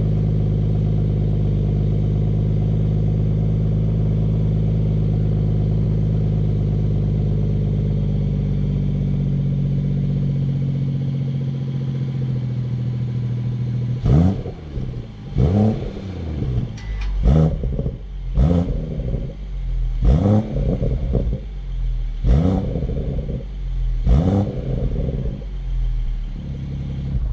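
BMW M140i's turbocharged straight-six on its stock exhaust, idling steadily for about half the time, then revved in about eight quick throttle blips, each rising and falling back.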